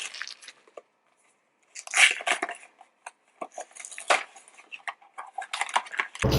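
A small cardboard mystery box being opened by hand: irregular clicks, taps and crinkly rustles of the packaging, loudest about two seconds in. Music starts right at the end.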